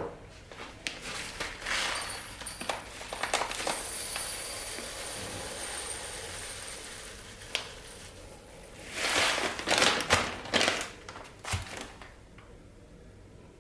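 Kitchen prep handling noises: crinkling and light clatter, with a steady hiss for several seconds in the middle and a cluster of louder rustles near the end.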